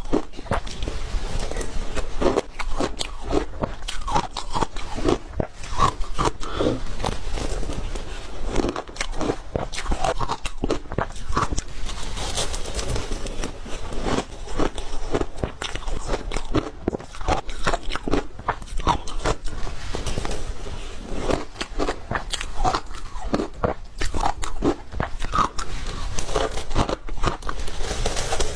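Close-miked chewing of hard ice: dense, irregular crunching and cracking as the ice is bitten and ground between the teeth.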